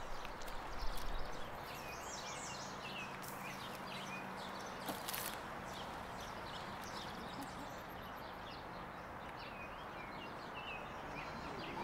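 Small birds chirping over a steady background hiss with a faint low hum. A few dull knocks come in the first second or so, and one sharp click comes about five seconds in.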